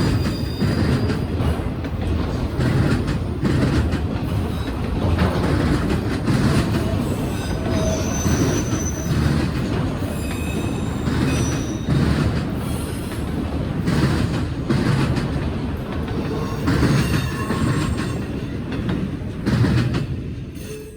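Norfolk Southern freight train rolling past, cars rumbling with frequent clicks of wheels over rail joints and short high-pitched wheel squeals throughout; it cuts off at the end.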